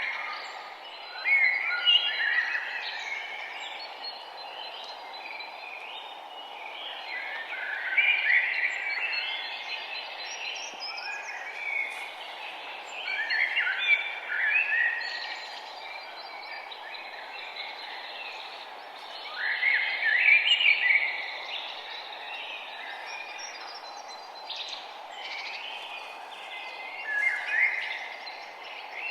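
Songbirds singing in bursts of warbling phrases every few seconds, over a steady background hiss.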